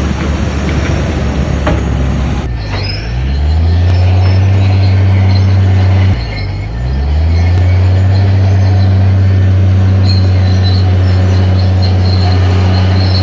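Heavy diesel engine of earth-moving machinery: a noisy rumble at first, then about two and a half seconds in the engine note climbs and holds steady, dips briefly around six seconds in, and climbs back to a steady run under power.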